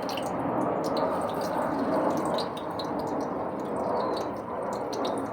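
Chicken wings deep-frying in hot oil: a steady sizzle with many small crackles and pops.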